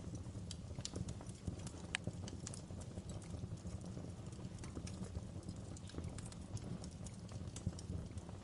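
Wood fire crackling in a fireplace: irregular sharp pops and snaps over a steady low rumble, with a louder snap about two seconds in.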